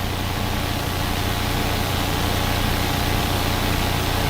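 Steady helicopter cabin noise as heard over the crew's intercom: a constant low engine and rotor hum with a few steady tones under an even hiss.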